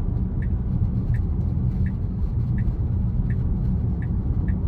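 Steady road and tyre rumble inside a 2022 Tesla Model Y Performance's cabin while driving. Through it comes a light regular ticking, about every three-quarters of a second, like a turn-signal indicator.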